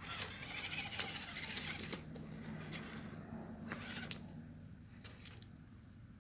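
Axial SCX10 II RC rock crawler's motor and gear drivetrain whirring as it crawls, with a hiss of tires over dirt and a few sharp clicks of the truck on rock later on.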